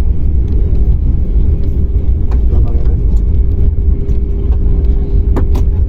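Airliner cabin noise on the ground before takeoff: a steady low rumble with a steady hum over it and a few faint clicks.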